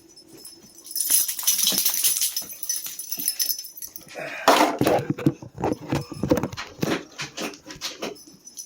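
A dog moving about and making noises: a hissing rush about a second in, then a run of quick irregular knocks and scuffles from about four and a half seconds in.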